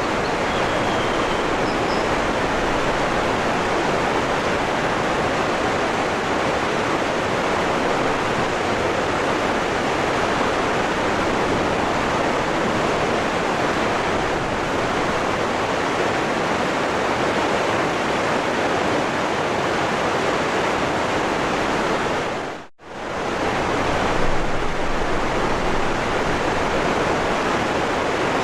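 Waterfall rushing, a steady, dense wash of falling water. About four-fifths of the way through it fades out for a moment and comes straight back.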